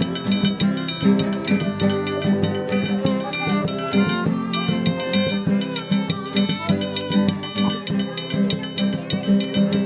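Guitar playing an instrumental passage, with quick repeated strokes over held chords and no singing.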